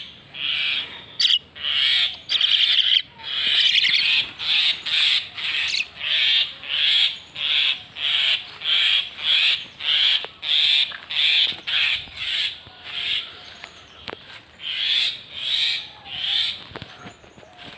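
Common myna giving a long run of harsh, rasping calls, about two a second, evenly repeated, with a brief lull a little past the middle.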